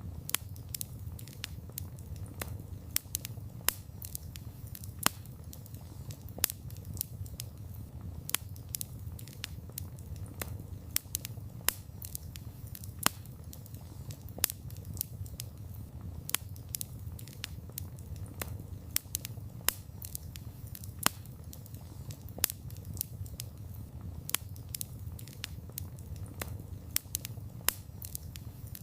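Wood campfire burning: a steady low rumble of the flames with irregular sharp crackles and pops from the burning wood, several a second, a few of them louder snaps.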